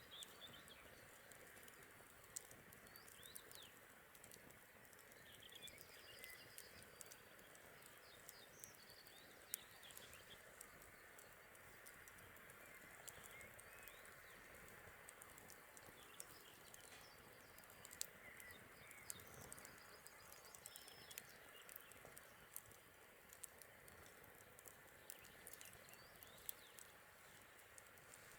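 Faint crackling of a wood campfire, with irregular sharp pops scattered throughout, and soft bird chirps in the background.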